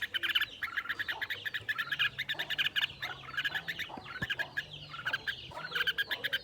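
Young red-whiskered bulbul chirping in quick, continuous runs of short high notes.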